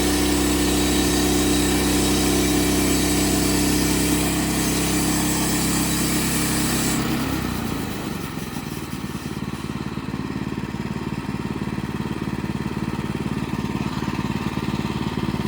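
Bushlander HM122 bandsaw sawmill's gas engine running steadily at high speed. About seven seconds in it is throttled down and settles into a lower, pulsing idle.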